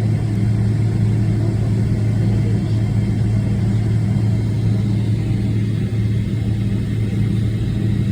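Boeing 777-300ER's GE90 jet engines running with a loud, steady low drone and rush of noise.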